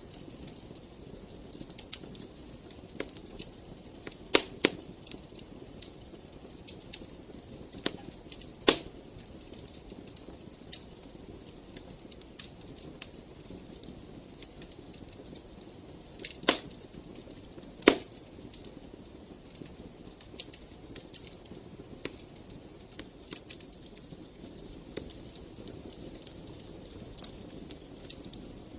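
Wood fire crackling in a fireplace: irregular small pops and ticks over a soft steady rustle of flames, with louder snaps about 4, 9, 16 and 18 seconds in.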